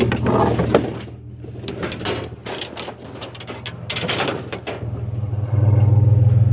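Truck engine running with a steady low hum, with several short rushing, rattling noises over it in the first few seconds. The engine gets clearly louder about five and a half seconds in, as the truck speeds up.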